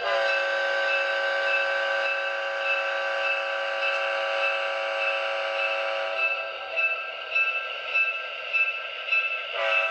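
The QSI sound decoder in an Atlas HO scale GP39-2 model locomotive sounds a diesel air horn: one long blast of about six seconds, then a second blast starting near the end. Underneath runs a repeating ding about twice a second, typical of the locomotive bell.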